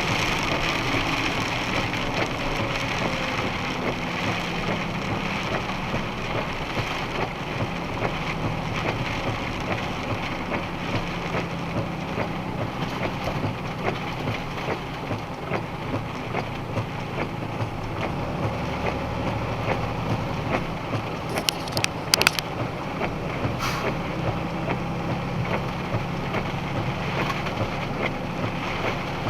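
Steady driving noise from inside a box truck's cab: a low engine and road drone with constant small rattles and crackles, and a few sharper clicks about two-thirds of the way in.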